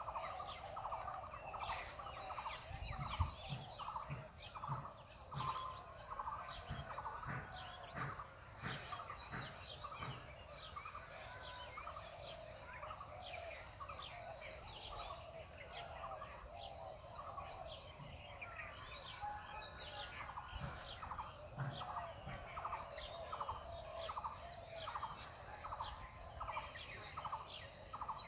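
Birds calling together: a steady run of short, evenly spaced calls, about two or three a second, with many higher chirps over them.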